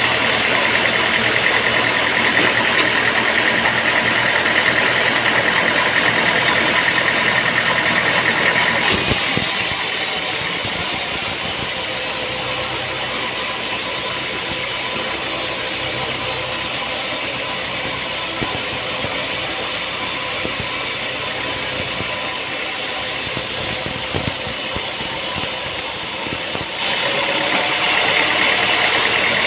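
An engine running steadily. About nine seconds in it drops to a quieter, thinner sound, and it comes back louder near the end.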